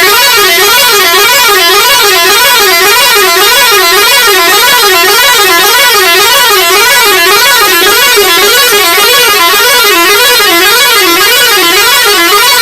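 Truck horn sounding continuously with a warbling pitch that swings up and down about twice a second.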